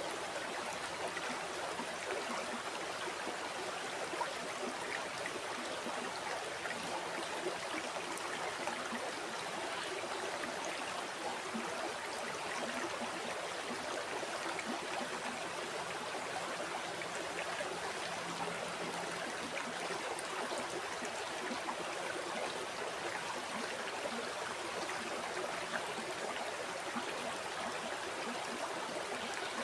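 A river flowing steadily over rocks, a continuous rush of water with small gurgles and splashes throughout.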